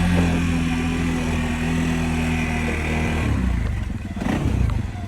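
CF Moto 600's single-cylinder engine running steadily, then shut off about three seconds in. A few light knocks follow.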